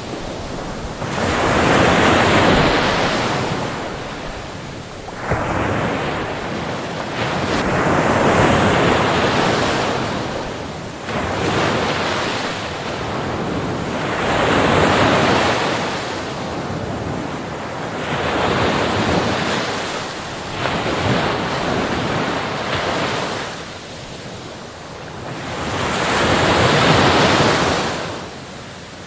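Ocean waves breaking on a beach, the surf swelling and ebbing about every five or six seconds, with sharper crashes near 5 and 11 seconds in.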